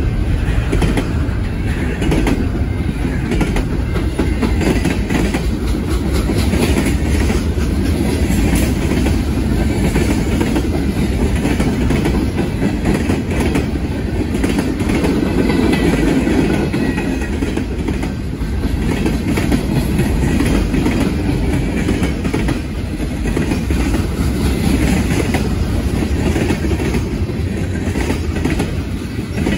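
Freight cars rolling past at close range: a steady rumble of steel wheels on rail, with a clickety-clack of many short clicks as the wheels cross the rail joints.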